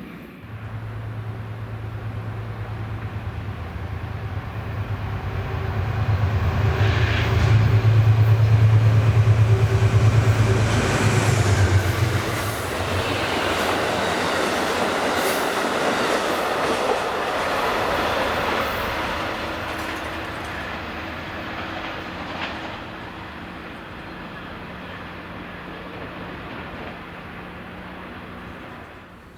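A passenger train passing. A steady low hum starts abruptly and grows louder to a peak about eight to eleven seconds in, then stops. After that the rushing clatter of the cars rolling by takes over and fades slowly over the rest.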